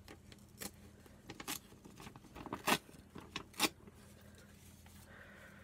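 Small hard objects clicking and knocking on a craft table as paints are rummaged through: a scatter of sharp taps, loudest about two and a half and three and a half seconds in.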